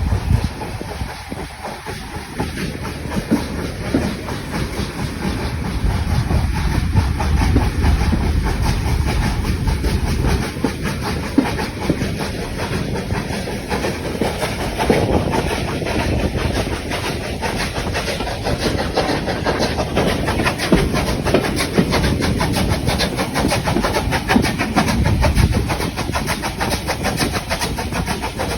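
Heritage train running along the line, its wheels clattering over the rails steadily.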